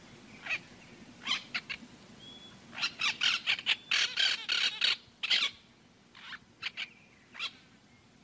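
Birds calling: a run of short, harsh squawks and chirps. They come in quick clusters in the middle and thin out to a few scattered calls near the end.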